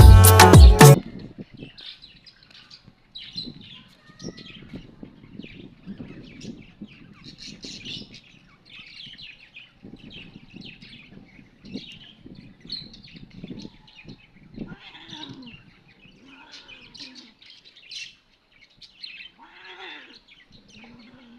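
Loud music cuts off about a second in, leaving birds chirping: many short, high calls, one after another, with faint low sounds underneath.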